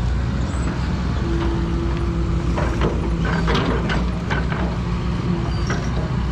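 Backhoe excavator's diesel engine running steadily at work, with a run of sharp metallic clanks and knocks about halfway through.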